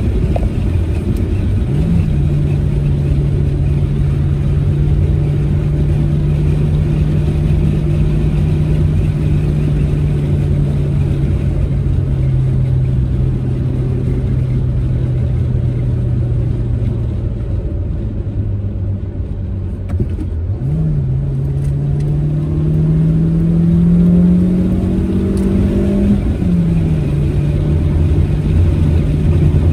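Proton Saga's four-cylinder engine and tyre noise on the road, holding a steady hum at cruise and easing off through the middle. Near the end the engine pitch climbs under acceleration and then drops sharply, as at a manual gear change.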